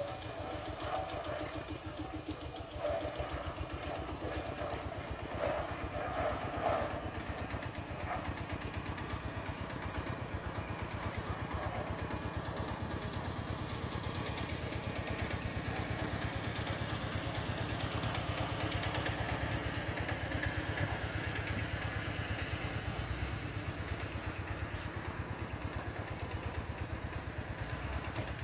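Heavy-equipment diesel engine running steadily with an even low throb, with some louder, brighter mechanical noise in the first several seconds.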